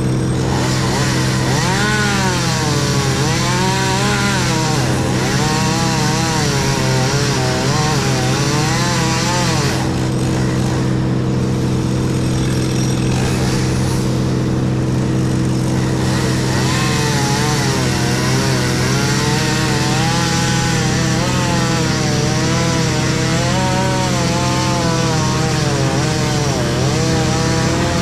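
Heavy machinery engine running steadily at a constant speed, with a higher whine on top that wavers up and down every second or two.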